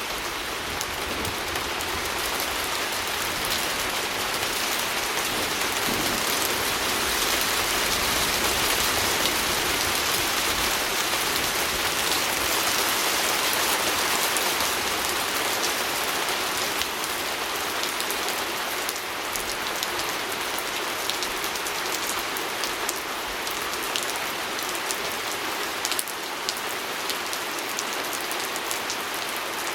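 Steady rain pattering on a window pane, an even hiss with scattered sharp drop ticks that stand out more toward the end.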